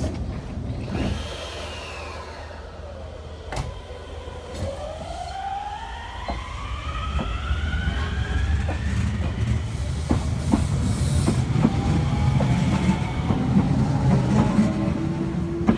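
Enshu Railway electric train pulling away: its traction motors whine, rising steadily in pitch as it accelerates, while its wheels click over the rail joints more and more often and the sound grows louder.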